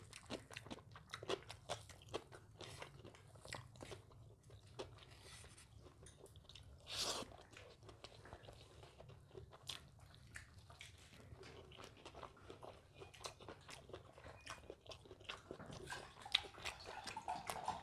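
Close-miked chewing of mutton dum biryani: a run of small, quick mouth clicks and crunches, with a brief louder noisy burst about seven seconds in.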